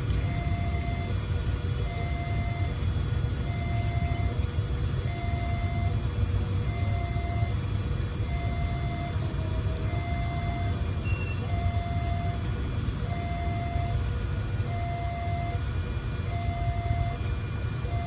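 Railway level-crossing warning alarm sounding steadily, a higher and a lower electronic tone alternating about once every three-quarters of a second, over a low rumble of traffic or wind.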